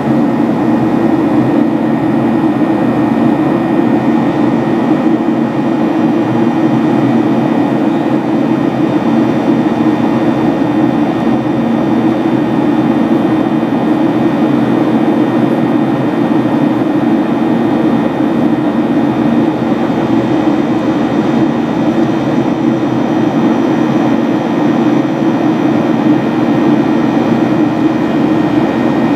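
Steady cabin noise of a Boeing 737-800 in flight: the low drone of its CFM56-7B jet engines and airflow, with a few faint high engine tones held steady on top.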